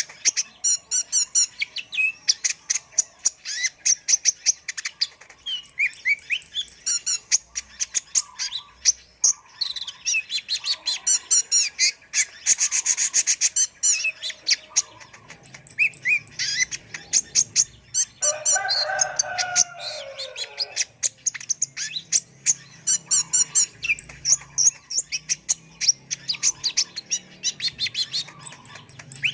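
Kolibri ninja sunbird singing a fast, near-continuous song of high chirps and rapid trills. About two-thirds of the way through, a lower warbling phrase comes in.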